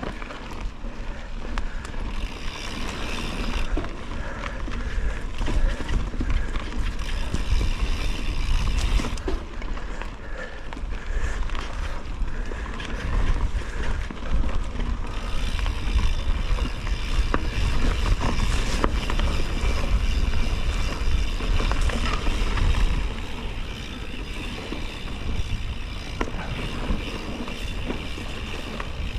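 Mountain bike ridden over a forest trail: steady wind buffeting on the microphone with tyre noise and scattered rattles and knocks from the bike over bumps.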